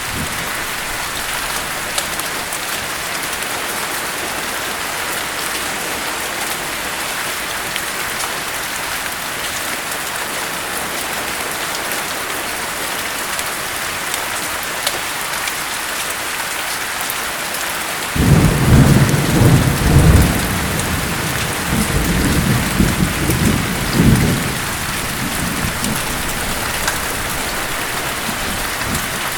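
Steady heavy rain hiss. About 18 seconds in, a thunderclap breaks in suddenly and rolls on in several deep rumbling surges for about seven seconds before fading back under the rain.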